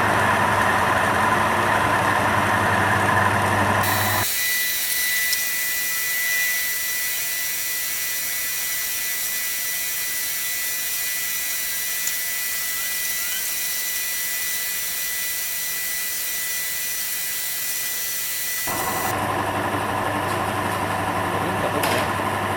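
Motor-driven friction and wear test machine running steadily with a low hum. From about four seconds in until a few seconds before the end, the hum gives way to a high hiss with a thin steady whistle.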